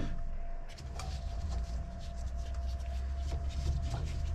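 Small scattered clicks and light knocks of hand tools and parts being handled during engine disassembly, over a steady low hum and a faint steady tone.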